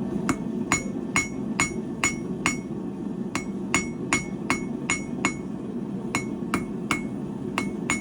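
Blacksmith's hammer striking a quarter-inch round steel bar on an anvil in steady blows, about two or three a second with short pauses between runs, each blow ringing. A steady low rumble runs underneath.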